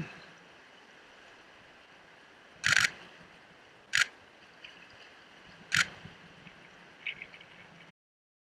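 Single-lens reflex camera shutter firing three times about a second and a half apart, the first a quick short burst of frames, with faint bird chirps between. The sound cuts out abruptly near the end.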